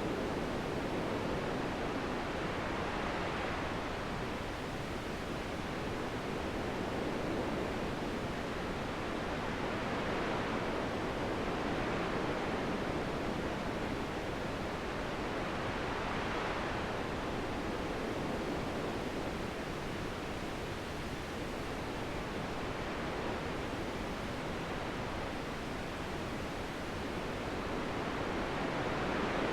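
Steady wind, rising and falling in slow gusts every few seconds.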